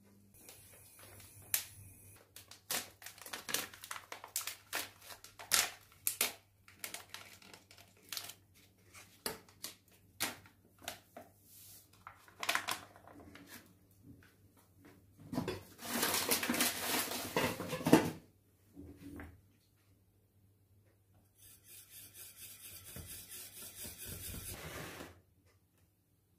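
Kitchen handling sounds: a quick run of clicks and knocks like dishes and utensils being handled. This is followed by a loud rushing noise for a couple of seconds and, after a short pause, a steadier rushing noise that stops suddenly near the end.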